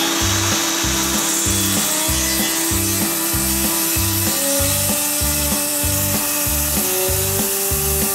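Milwaukee cordless circular saw cutting a white oak board: steady cutting noise under load throughout. Background music with a steady beat plays under it.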